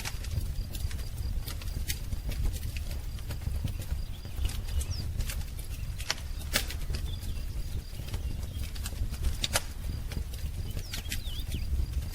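Wood fire crackling, with irregular sharp pops and snaps over a low steady rumble. A few faint bird chirps come through, one near the middle and a couple near the end.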